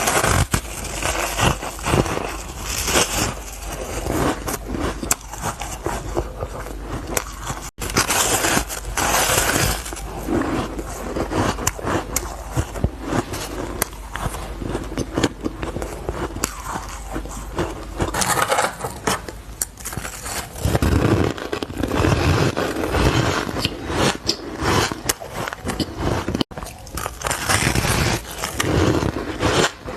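Close-up crunching of ice and powdery freezer frost being bitten and chewed, a dense run of crisp cracks and scraping crunches, with a couple of abrupt cuts.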